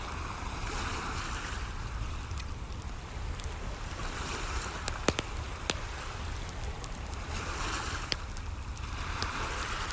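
Waves washing in on a shore in slow swells every few seconds over a steady low rumble, mixed with a crackling wood fire that gives a few sharp pops, the loudest about five seconds in.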